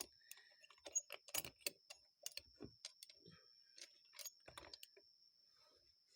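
Scattered light clicks and taps of small metal carburetor parts and screws being handled and fitted during a carburetor rebuild, at irregular spacing.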